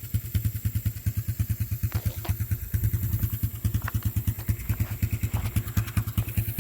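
Small engine idling with a steady, even chug of about ten beats a second.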